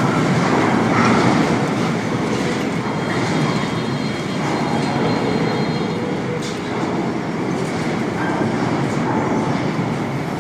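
Earthquake shaking: a loud, continuous rumbling and rattling that comes on suddenly and runs on steadily with slight swells.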